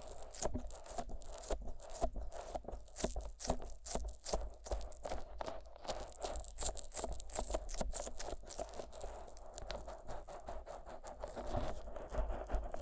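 Fingers rubbing thick Vaseline over the silicone ears of a 3Dio binaural microphone, with sticky, squelching rubs and little clicks coming several times a second in an uneven rhythm.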